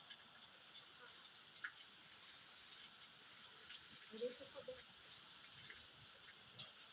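Faint outdoor ambience of insects with a steady high buzz and birds chirping. A brief distant voice comes in about four seconds in.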